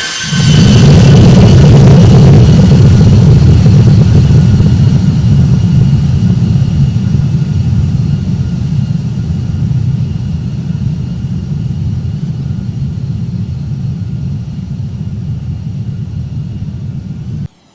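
Jet aircraft passing low overhead: a loud low engine roar comes in suddenly about half a second in, under a steady high whine, then slowly fades. It cuts off abruptly near the end.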